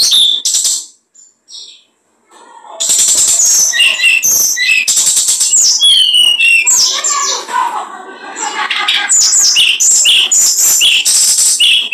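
A small songbird singing a loud, rapid song of chirps, trills and quick whistled slurs, pausing briefly about a second in and resuming strongly just under three seconds in.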